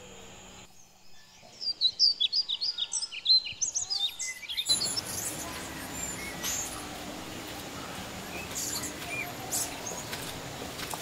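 Birds chirping: a fast run of repeated chirps for about three seconds, then a steady outdoor background with a few scattered single chirps.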